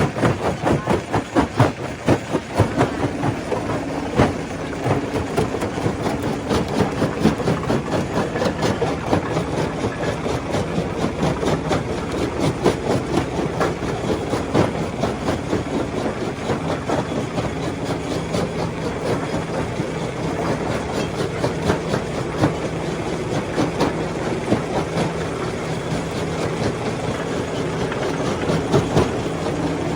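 Stone crusher running: a dense, continuous clatter of rocks knocking and breaking, over a steady machine hum.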